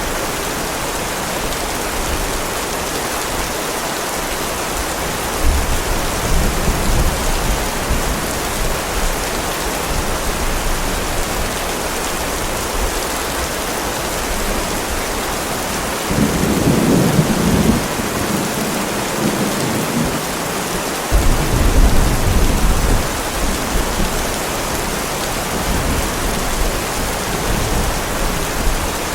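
Heavy rain falling steadily, with several low rolls of thunder rumbling through it. The loudest rolls come a little past halfway and again a few seconds later.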